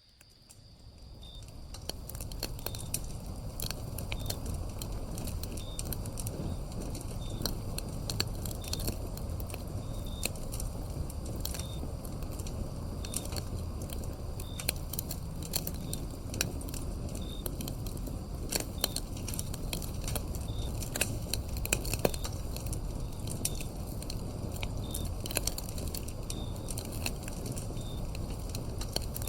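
A wood fire crackling and popping with sharp snaps over a low rumble of flames, fading in over the first few seconds. Crickets chirp steadily and faintly behind it, about once a second.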